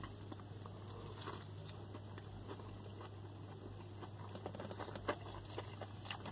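A person quietly chewing a mouthful of beef burger: soft, wet mouth clicks and smacks that come more often in the second half, over a steady low hum.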